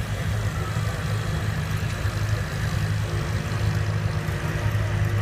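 An engine running steadily at idle with a deep, even hum, with a faint high whine over it.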